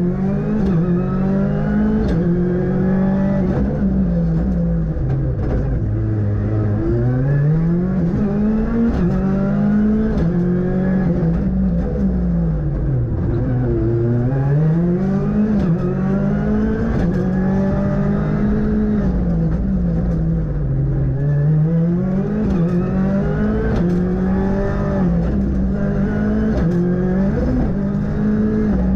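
Ford Fiesta R5 rally car's turbocharged four-cylinder engine at full stage pace, heard from inside the cabin. The engine note climbs through the gears, each upshift cutting the pitch sharply. It falls away several times under braking for corners before pulling hard again, with short sharp clicks and pops along the way.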